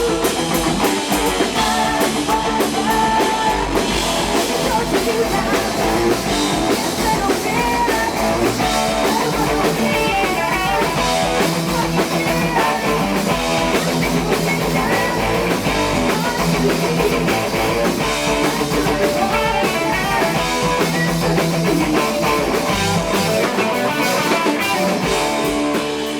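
Heavy metal band playing loud and without a break: electric guitars and a drum kit.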